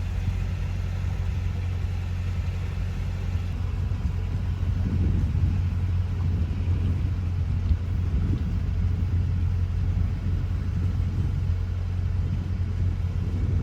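Narrowboat engine running steadily under way, a constant low rumble.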